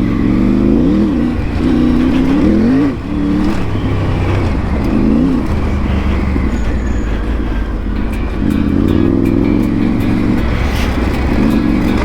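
Triumph Tiger 900 Rally Pro's three-cylinder engine under way, its revs rising and falling several times in the first half, then pulling more steadily and a little louder near the end.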